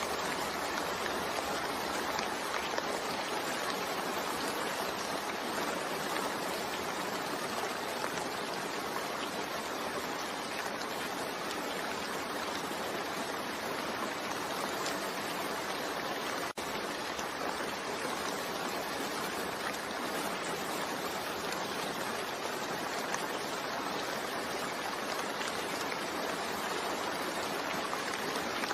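Steady rain falling: an even, continuous hiss of rain that holds level throughout, with one momentary drop about halfway through.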